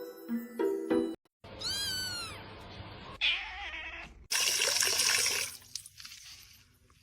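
A domestic cat gives one drawn-out meow that rises and falls in pitch, about one and a half seconds in, after a few steady musical tones. A loud rushing noise follows a couple of seconds later.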